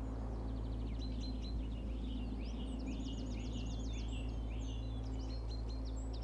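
Forest birdsong: several small birds singing and calling throughout, with quick chirps, rapid trills and short rising and falling notes, over a steady low drone.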